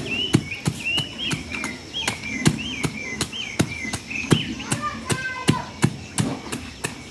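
A panga (machete) chopping sweet potatoes into small pieces in quick, steady strokes, about two to three sharp knocks a second.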